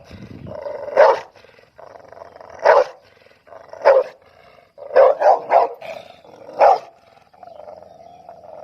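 A big dog barking loudly, seven barks including a quick run of three about five seconds in, with a steady growl in the gaps between barks.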